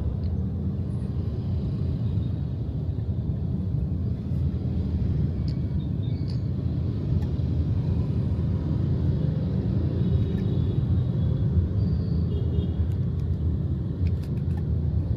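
Steady low rumble of a road vehicle on the move, engine and road noise running evenly with no big changes.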